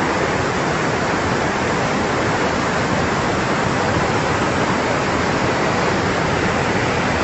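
Fast-flowing floodwater rushing in a steady, loud, unbroken roar of water noise.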